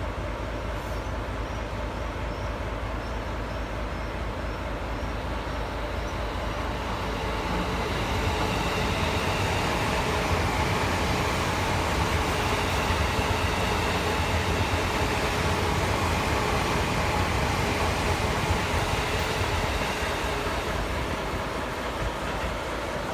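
JR East E257 series electric multiple unit passing through a station without stopping: the rumble of wheels on rail builds about eight seconds in, stays loudest for about twelve seconds, and eases off near the end.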